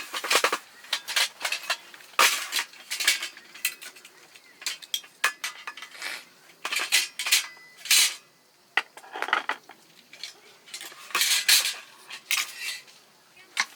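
Metal utensils and cookware clinking and scraping in irregular, short clatters.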